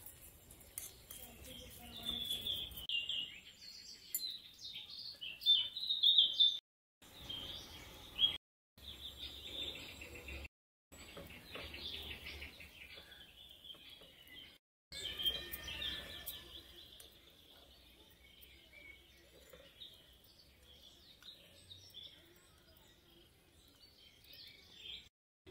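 Birds chirping and calling in short, repeated notes, loudest a few seconds in. The sound drops out briefly a few times.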